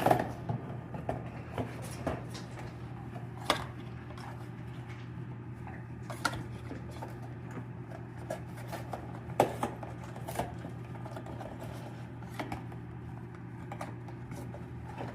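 Macaw working at a cardboard tissue box with its beak: irregular sharp clicks and crunches scattered every second or few seconds over a steady low hum.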